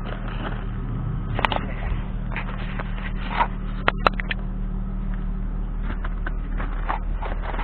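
Infiniti G37's 3.7-litre V6 idling steadily through an exhaust with a Cherry Bomb muffler on one side and a Thrush on the other in place of the resonators, the rest stock. A few sharp clicks sound about a second and a half and about four seconds in.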